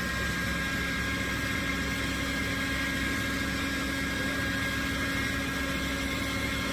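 Flatbed tow truck's engine running steadily, an even drone with a constant whine over it.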